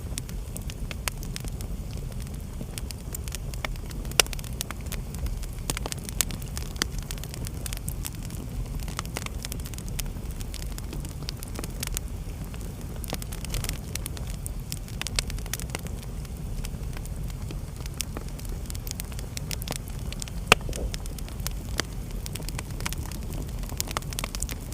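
Wood fire burning in a fireplace: a steady low rumble of flames with scattered sharp crackles and pops, a few of them louder.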